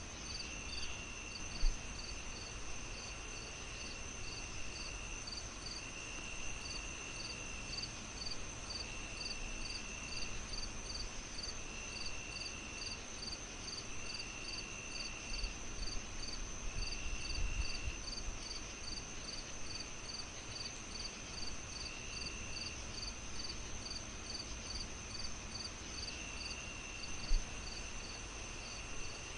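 Several night insects, such as crickets, calling at once. One gives a steady high ring, one a fast, even chirp about three times a second, and one a lower trill in bursts of a second or two, repeating every couple of seconds. Underneath is a low rumble, with two soft thumps, one near the start and one near the end.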